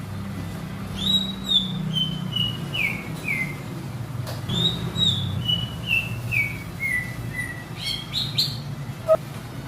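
Cucak ijo (green leafbird) singing: two phrases of clear whistled notes, each stepping down in pitch over two to three seconds, then a few quick rising notes near the end. A steady low hum runs underneath, and there is a sharp click shortly before the end.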